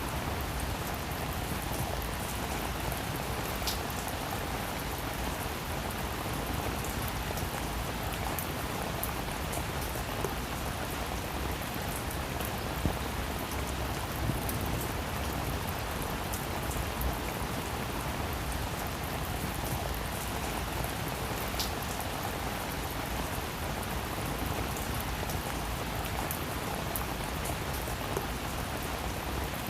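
Steady rain falling on a roof: an even hiss with scattered drop ticks and occasional louder single drips.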